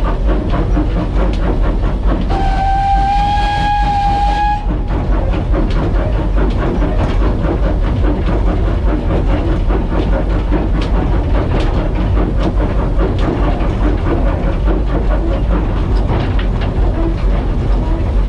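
Small tank steam locomotive under way, heard from the footplate: a steady running rumble with wheels clicking over the rail joints. A couple of seconds in, a whistle sounds once, a steady tone for about two seconds.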